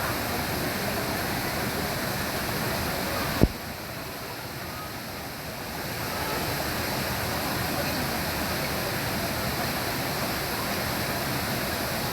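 Mountain stream water rushing steadily. A sharp click comes about three and a half seconds in, after which the water is a little quieter for a couple of seconds.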